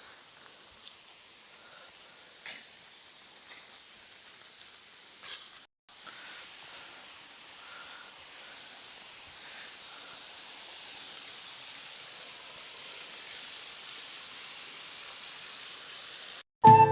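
Steady rushing hiss of running water, growing slowly louder, after a fainter stretch with a few soft knocks; it cuts off suddenly near the end.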